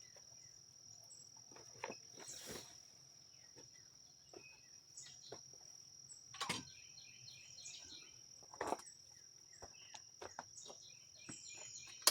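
Crickets trilling steadily and faintly, with short chirping runs, broken by a few scattered light clicks and knocks of handling.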